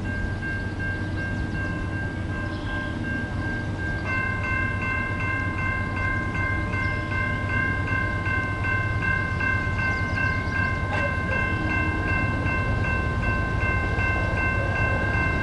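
Train passing with a steady low rumble, under several continuous high ringing tones. About four seconds in, another tone joins and the upper tones start pulsing quickly.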